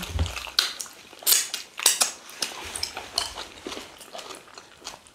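Close-miked mukbang eating sounds: wet chewing, lip smacks and scattered sharp clicks as fufu with slimy ogbono soup is eaten by hand, with a low bump right at the start.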